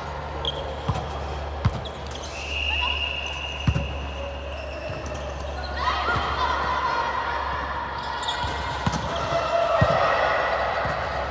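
Volleyball rally in an echoing gym: about six sharp smacks of the ball being hit and bouncing, at irregular intervals, over players' voices. A steady high tone lasting about a second and a half comes near the start, and a short rising squeak about halfway.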